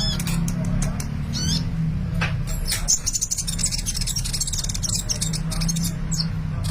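A sunbird (Indonesian 'kolibri') singing vigorously: sharp high chirps and sweeping notes, then a fast high trill from about three seconds in, over a steady low hum.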